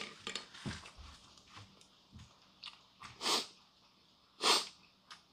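A person chewing a mouthful of somen noodles and gwamegi close to the microphone, with small wet mouth clicks and two louder short breathy noises, about three and four and a half seconds in.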